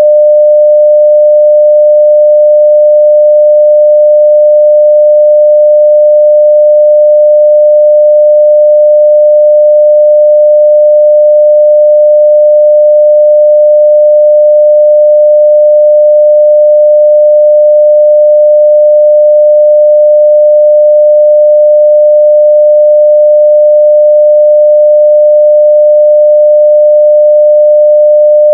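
A 600 Hz sine-wave test tone at full level (0 dB), a single pure pitch held steady and unbroken.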